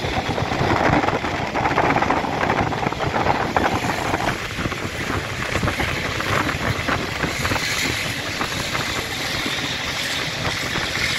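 Old blue passenger train running along the track, a steady rumble with quick rattling knocks of wheels and carriage, heard through an open window with wind rushing over the microphone.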